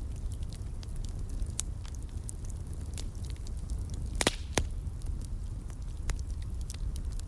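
Wood fire crackling in a fireplace: scattered sharp pops over a steady low rumble, with the loudest couple of pops a little past halfway.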